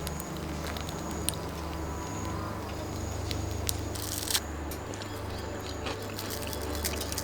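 Firewood burning: scattered crackles and sharp pops, with a short louder hissing burst about four seconds in, over a steady low hum.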